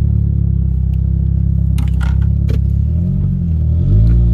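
2004 Honda CR-V's 2.4-litre four-cylinder engine and exhaust running loud under way, the exhaust still loud because it needs a catalytic converter. About three seconds in the engine note wavers and shifts, then settles at a new pitch.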